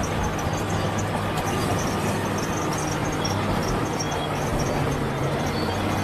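Bulldozer's diesel engine running steadily, a low hum with a noisy mechanical clatter over it.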